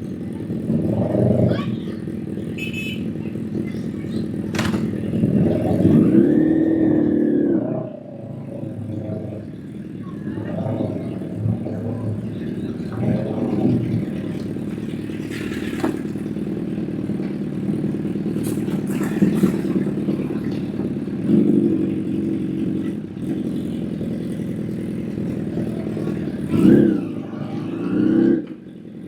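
Honda CBR1000 motorcycle's inline-four engine running, its revs rising and falling several times, loudest about six to seven seconds in.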